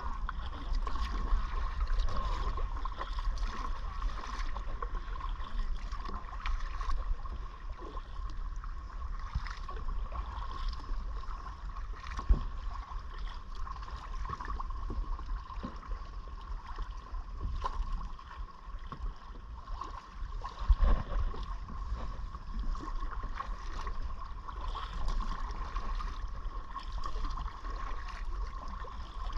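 Water splashing and gurgling around a paddled kayak, over a low steady rumble and a faint steady tone. Scattered small ticks run through it, with two sharper knocks, the louder one near the end.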